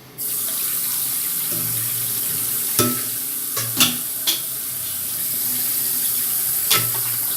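Sink tap turned on just after the start, then water running steadily as a dirty vacuum cleaner pipe is flushed out under it. Four sharp knocks come through the water noise.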